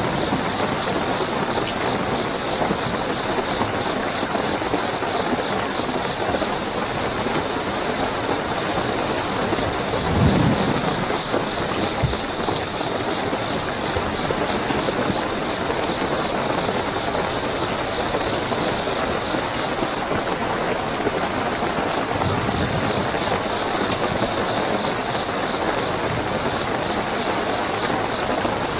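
Steady heavy rainfall with a continuous high chorus of night crickets over it. A brief low rumble comes about ten seconds in and a fainter one near twenty-two seconds.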